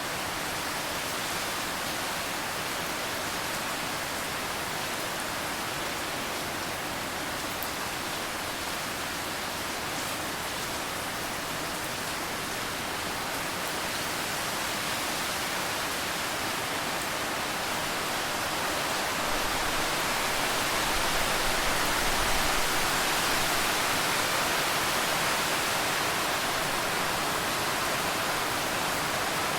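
Steady rainfall, a dense, even hiss that swells slightly louder about two-thirds of the way through.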